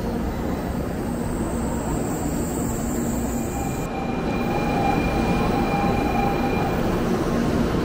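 Shinkansen bullet train and station platform noise: a steady rumble as the train moves along the platform. About four seconds in this gives way to the steady hubbub of a busy platform beside the stopped train.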